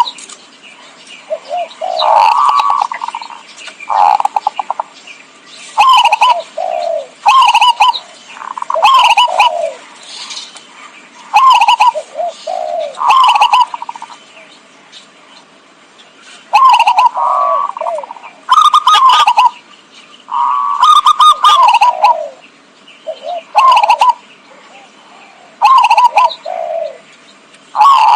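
Zebra dove (perkutut) cooing in repeated short, loud phrases of quick staccato coos, a new phrase every second or two, with a pause of a few seconds in the middle. This is the perkutut call used as a lure sound for trapping the birds.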